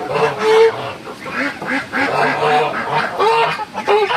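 A flock of laying ducks quacking, many short calls overlapping without a break.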